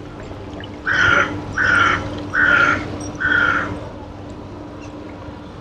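A seagull giving four harsh calls in quick succession, each slightly falling in pitch, over a steady wash of sea water.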